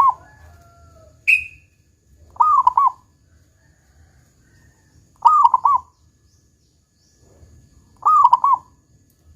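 Zebra dove (perkutut) cooing: three short phrases about three seconds apart, each a quick run of coos. There is also a brief high chirp a little over a second in.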